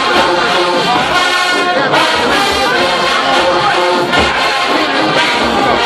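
Marching band playing loudly, carried by its brass section.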